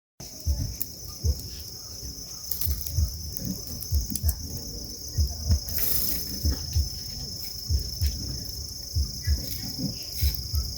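Insects trilling in a steady, high, continuous chorus, with irregular low thumps.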